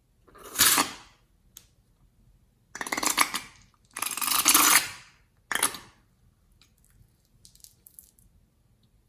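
Slime being handled in four crackling bursts, the third the longest, with a few faint ticks near the end.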